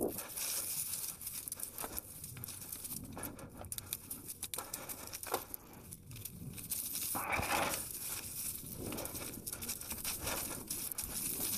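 Irregular crackling and rustling of the forest floor crunched under a mountain bike.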